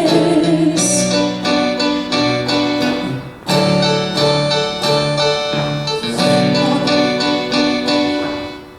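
Instrumental music between sung lines of a live musical: sustained keyboard chords that change every second or so, with a brief break about three and a half seconds in and a fade near the end.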